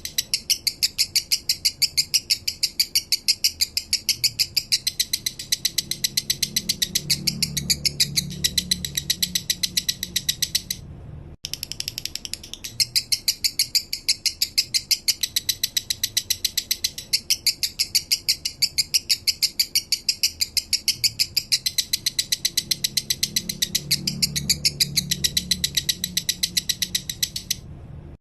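Male lovebird singing its slow 'minor' song: a long, fast string of sharp, evenly repeated chirps, about six or seven a second. The string breaks off for a moment about eleven seconds in, then starts again.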